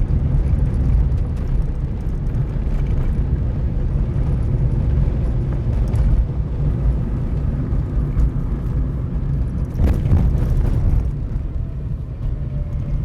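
Vehicle driving on a gravel road: a steady low rumble of engine and tyres, with a couple of brief knocks from bumps, around six and ten seconds in.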